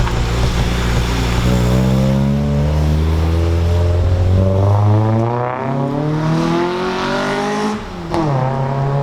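Car engine accelerating hard, its pitch climbing for about six seconds. Near the end it drops sharply at an upshift and starts climbing again.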